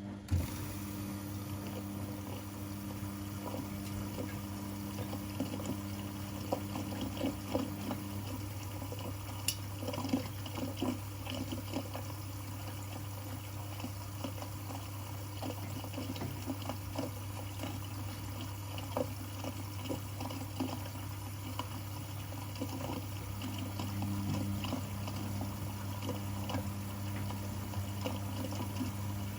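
Washing machine taking in and sloshing water, with a steady low hum under it and scattered small knocks. A second humming tone stops about eight seconds in and comes back near the end.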